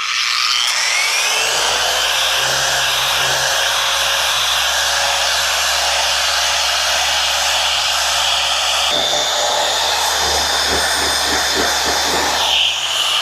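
Random orbital sander with 220-grit paper spinning up with a rising whine over the first second or so, then running steadily as it sands rust spots and light pitting off a cast-iron shaper table. Its tone shifts slightly about nine seconds in.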